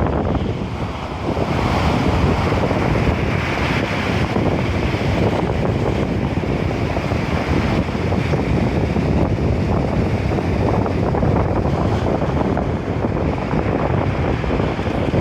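Strong gusty wind, 10 m/s with gusts to 14 m/s, buffeting the microphone with a heavy rumble, over storm waves breaking and rushing in the surf.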